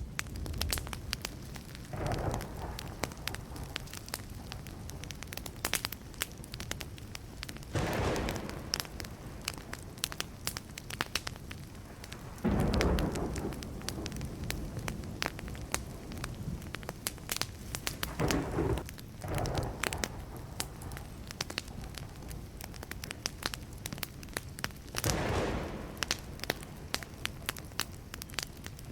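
Wood campfire crackling, with a dense run of sharp pops and snaps. About five louder, fuller surges of noise, each around a second long, come every five or six seconds.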